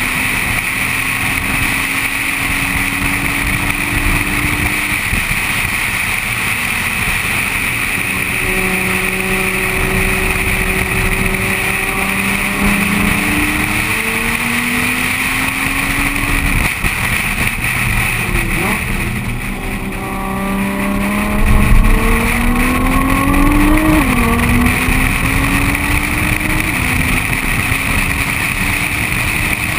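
Nissan GT-R's twin-turbo V6 driven hard on a race track, heard from a camera mounted outside the car, with a steady rush of wind and road noise. The engine note rises and falls through the corners. About two-thirds of the way through it turns louder and climbs under full acceleration, then drops sharply with an upshift.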